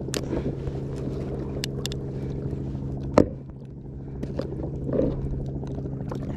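Boat engine running steadily, with scattered light clicks and one sharp knock about three seconds in.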